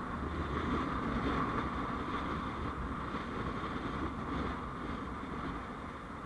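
Steady road noise of a vehicle in motion, a continuous rumble and hiss that eases slightly near the end.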